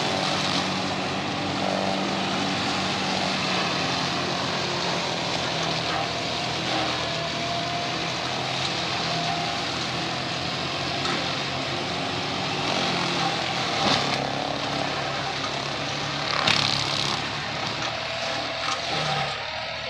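Tractor engine running steadily under load, with a couple of brief louder knocks near the end.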